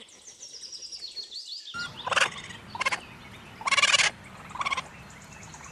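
Hedgehog calls: a run of high, falling chirps, then, after an abrupt change under two seconds in, several short bursts of rapid rattling calls.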